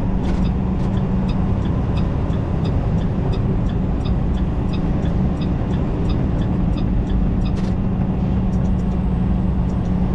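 Diesel engine of a semi truck droning steadily, heard inside the cab while crawling at low speed, with a light regular ticking about two to three times a second.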